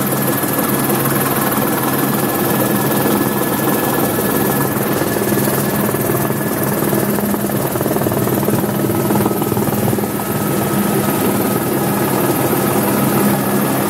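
Eurocopter AS350 Écureuil helicopter running steadily in flight, a continuous loud rotor and turbine noise with a thin steady whine over it.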